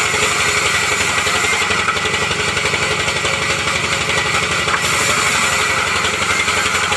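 A sawmill's engine running steadily, with a fast, even low pulse.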